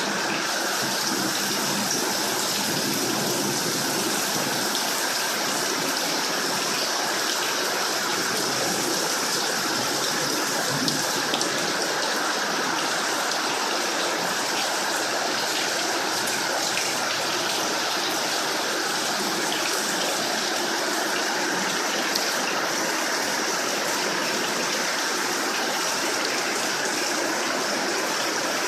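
Heavy tropical downpour, rain pouring down with the sound of running water, a dense, steady hiss that holds at the same level throughout.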